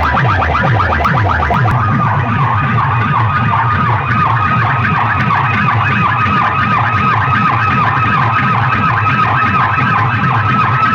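Loud DJ sound-system speakers playing a siren-effect track: fast wailing tones repeating over quick falling bass sweeps, about four a second, with no break.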